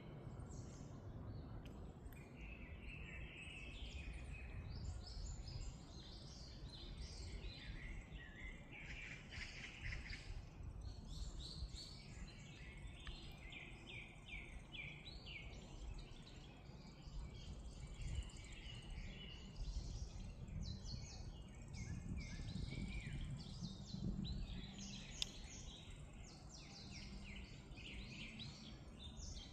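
Many birds chirping at once, an overlapping chorus of quick high chirps and trills that never stops, over a low steady rumble.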